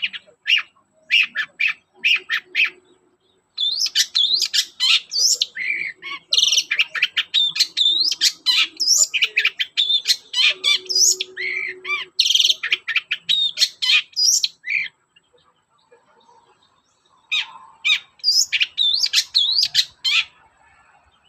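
Long-tailed shrike (cendet) singing a fast, varied song of quick chattering and whistled notes, in three runs broken by short pauses.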